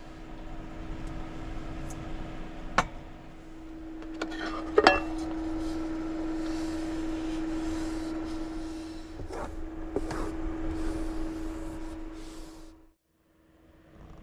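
Steady low hum with a few sharp clicks and clinks, like tableware or glass being handled in a small enclosed space. The loudest clink comes about five seconds in, and the hum cuts out shortly before the end.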